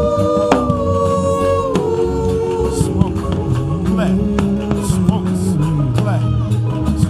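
Slow instrumental worship music from a live band: long held melody notes that glide from pitch to pitch over a moving bass guitar line and a steady light drum beat.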